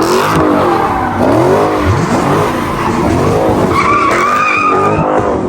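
A car's engine is being revved hard in repeated rising and falling surges during a burnout. From about four seconds in, the spinning tyres let out a sustained high squeal.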